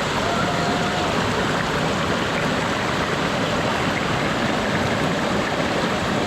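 Waterfall and stream water rushing in a steady, unbroken roar of noise.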